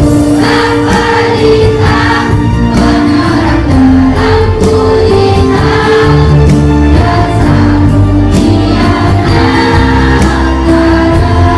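Children's choir singing together over an instrumental backing track with a steady beat.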